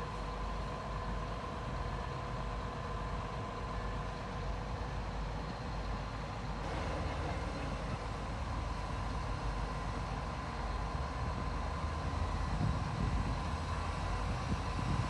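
Heavy diesel earthmoving machinery running steadily, a low engine rumble with a thin steady whine above it.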